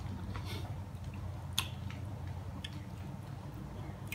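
A man chewing lamb shank meat: a few scattered soft wet smacks and clicks of the mouth over a low steady hum.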